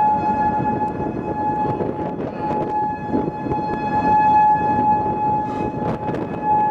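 Outdoor tornado warning siren sounding one steady pitch that swells and fades as it turns, dipping about two seconds in and again near the end. Under it is a constant rumble of wind, with a few sharp clicks near the end.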